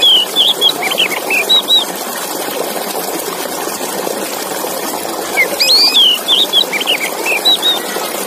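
Male Oriental magpie-robin singing: two phrases of clear, varied whistled notes, the second starting about five seconds in, over a steady rushing noise.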